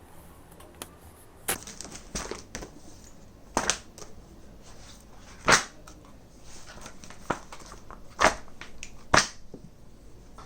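A string of irregular sharp knocks and clacks, about eight in all and unevenly spaced, with a little rustling between them, as of objects being handled and set down.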